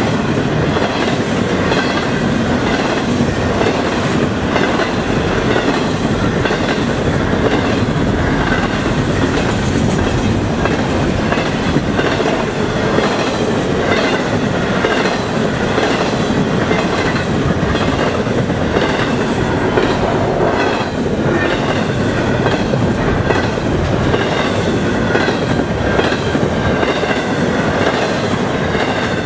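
Double-stack intermodal freight train's container well cars rolling past at speed: a steady, loud rumble and rattle of steel wheels on rail, with rhythmic clicking over the rail joints.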